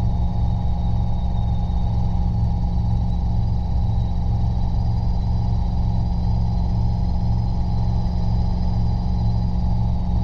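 Robinson R22 helicopter in steady cruise flight, its four-cylinder Lycoming piston engine and rotors making a constant drone with a faint high whine, heard from inside the cabin.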